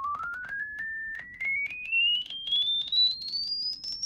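A pure test tone from a studio tone generator, stepping up in pitch from a mid tone to a very high one as its frequency is raised, with a string of short clicks as it is adjusted.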